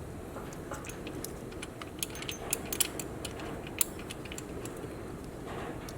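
Scattered light metallic clicks and taps of tools and parts being handled, over a steady low background noise.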